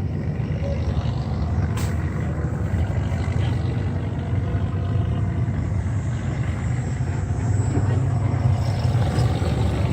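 Steady low engine rumble, getting slightly louder toward the end.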